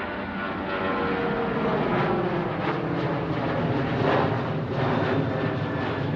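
Jet airliner engines running at low taxi power: a steady rushing hum with several whining tones that drift slowly in pitch.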